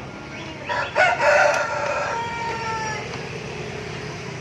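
A rooster crowing once, a long call of about two seconds that dips slightly in pitch at the end.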